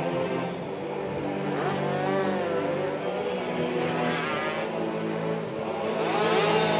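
Racing motorcycle engines revving, their pitch rising and falling several times, over steady background music.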